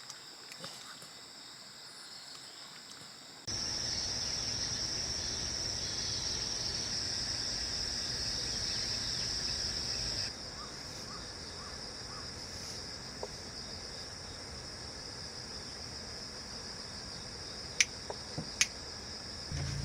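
Steady, high-pitched outdoor insect chorus, jumping louder a few seconds in and dropping back about halfway through, with two sharp clicks near the end.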